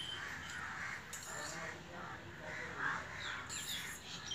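Birds calling: a run of repeated harsh calls, with a few short higher chirps about three seconds in. A spoon clinks lightly against a steel bowl a couple of times.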